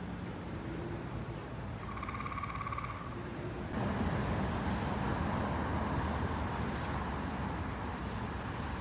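Steady road traffic noise that grows louder about four seconds in, as a vehicle comes nearer, with a brief one-second tone near the start.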